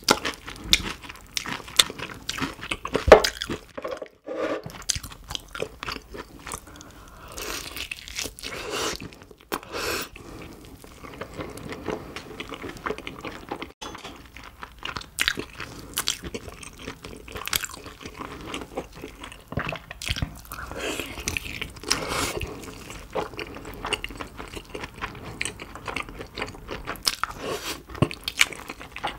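Close-miked chewing and biting of roast pork knuckle (Schweinshaxe) with crisp skin: irregular crisp crunches mixed with wet chewing and mouth smacks, with one sharp crunch about three seconds in.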